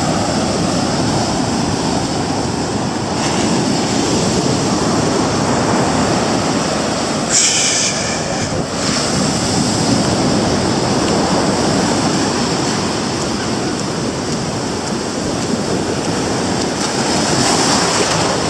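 Big ocean waves breaking as heavy surf, a steady wash of water noise that does not let up, with a brief brighter hiss about seven seconds in.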